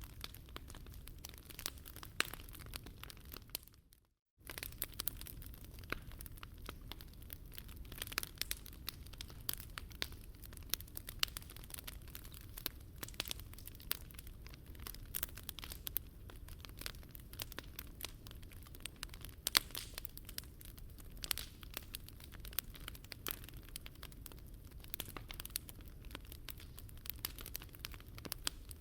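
Wood fire crackling in a Picogrill 398 fire stand: irregular sharp pops and snaps over a low steady rumble. The sound cuts out for a moment about four seconds in.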